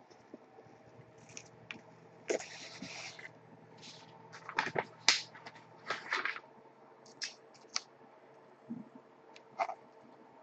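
Scattered light clicks, taps and scrapes of things being handled, a dozen or so sharp ones spread irregularly, over a faint steady electrical hum.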